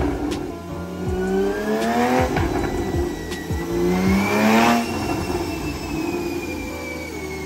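Porsche 911 flat-six, fitted with an aftermarket exhaust and run with the sport exhaust setting on, revving up under full load on a chassis dyno. It climbs in pitch twice, peaks about four and a half seconds in, then eases off and winds down.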